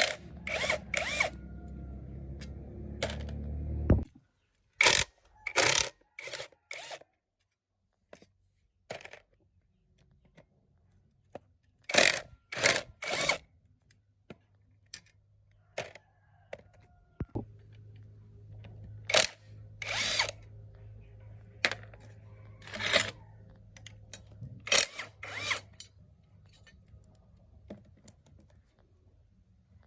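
Metal tools and small engine parts clinking and knocking as an old gasoline engine is taken apart by hand, in quick clusters of sharp clinks. A low steady hum cuts off about four seconds in, and a fainter hum returns in the second half.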